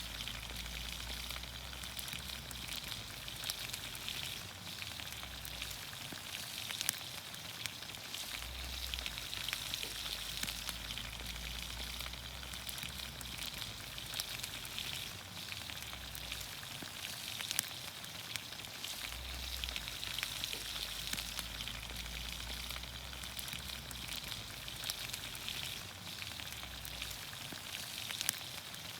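Vegetables sizzling in olive oil in a pan over a campfire: a steady sizzle with frequent small sharp pops and crackles.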